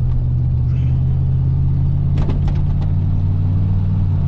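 Old Ford F-150 pickup driving, heard from inside the cab: a steady low engine and road drone. A few brief clicks come about two seconds in.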